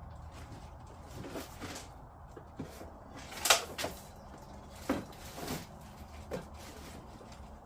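Hard plastic parts of a kids' ride-on car being handled and set down: a string of separate clacks and knocks, the loudest about three and a half seconds in.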